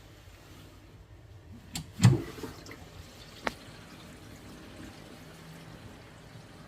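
Water running faintly into a wash hand basin and draining through the bottle trap. About two seconds in there is a short loud clunk, and a sharp click follows a second and a half later.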